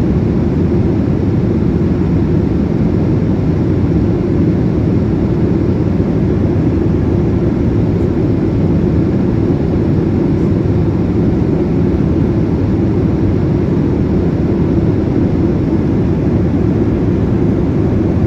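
Steady low rumble inside the cabin of a Boeing 787-8 airliner in flight, from its engines and the airflow, with no change in level.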